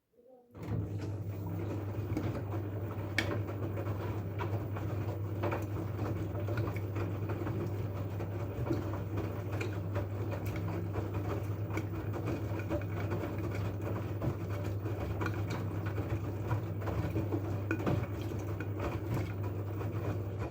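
LG F12A8ND front-loading washing machine running a wash cycle: a steady motor hum with irregular light knocks and patter from the drum and its load. It starts suddenly about half a second in.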